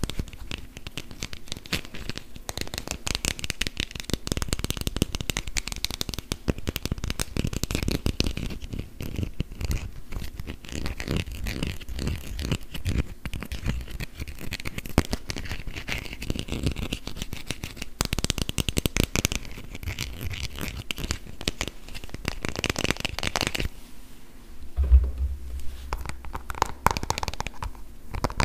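Fingernails tapping and scratching rapidly on hollow plastic toy food, close-miked, with a dense run of small clicks. A heavier dull knock comes near the end.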